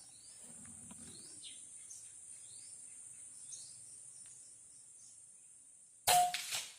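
Steady high insect buzz with short falling bird chirps about once a second. About six seconds in comes a sudden loud air rifle shot with a brief ring, then a smaller second crack.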